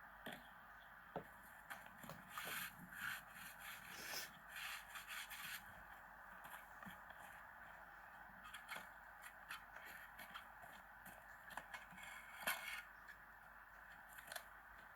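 Faint scraping, crackling and small clicks of rotten wood being pried and broken out of a door frame by hand, in short irregular bouts with a louder snap about twelve seconds in.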